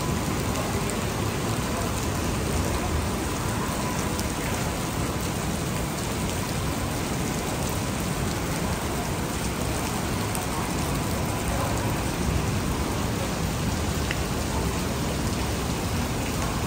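Heavy rain falling steadily on wet pavement and street, a constant dense hiss of downpour.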